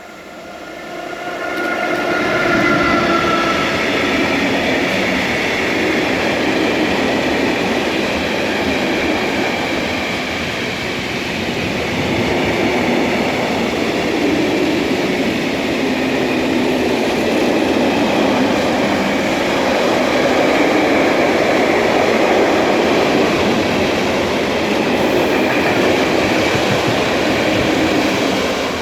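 Electric train running past close by. The sound swells about a second in, with a few steady tones at the start, then stays loud as the train rumbles and rattles along the rails, easing off near the end.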